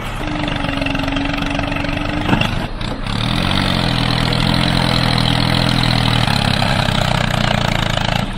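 A steady hum for about two seconds, a couple of short knocks, then a small engine starts up, rising in pitch and settling into a steady idle.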